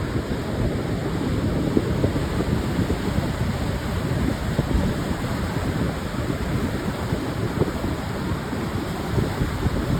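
Pacific surf washing on a sandy beach, with wind buffeting the microphone: a continuous wash of noise, heaviest in the low range, swelling slightly now and then without distinct single wave crashes.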